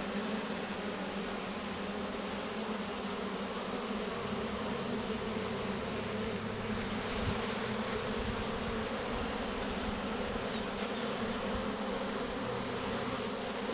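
A honeybee colony buzzing in a steady, unbroken drone, with many bees flying at once.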